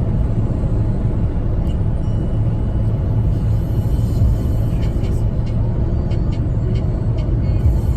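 Opel Astra 1.6 CDTI four-cylinder turbodiesel pulling hard at high speed, a steady low engine drone with heavy road and wind noise, heard inside the cabin. Faint light clicks come in from about halfway.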